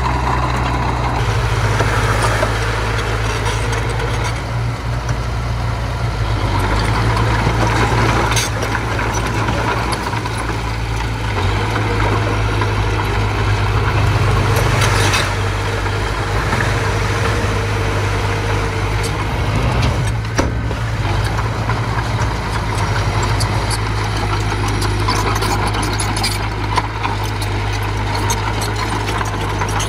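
Diesel engine of earthmoving machinery running steadily, with a few sharp knocks.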